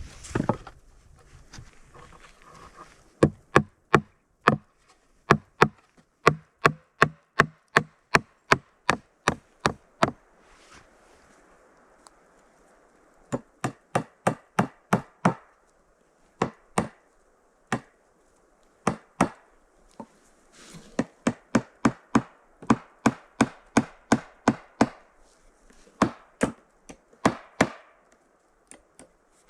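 Axe blows chopping wood in quick runs of about two strikes a second, broken by short pauses.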